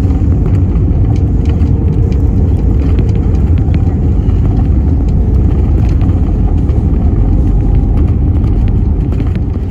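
Steady loud low rumble of jet airliner cabin noise, with faint rattles, fading out just at the end.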